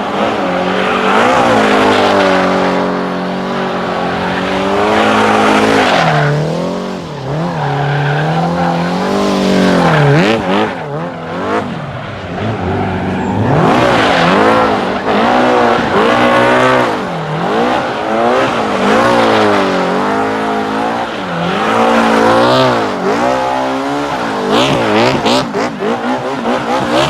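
Yamaha Raptor quad fitted with a Honda CBR 1000 inline-four superbike engine, revving hard and repeatedly, its pitch climbing and dropping about once a second as it is driven.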